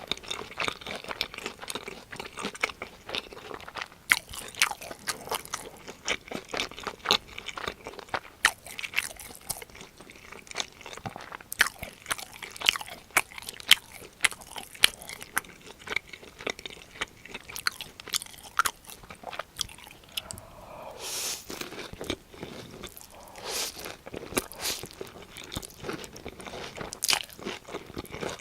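Close-miked eating: crisp crunching and chewing of fried breaded cheese pork cutlet, with many irregular sharp bites and chews. About twenty seconds in there is a longer, smoother rushing sound.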